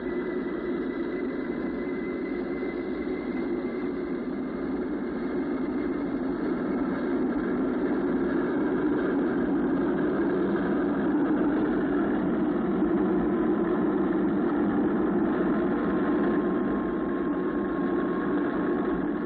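Jet engine noise from the Yakovlev Yak-36's twin turbojets in flight: a continuous rough rumble with a faint steady high whine, slowly growing louder over the first ten seconds or so and then holding, muffled as on an old film soundtrack.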